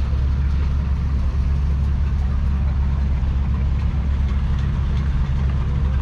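A Ford 6600 tractor's 4.2-litre four-cylinder diesel engine running at a steady, unchanging speed.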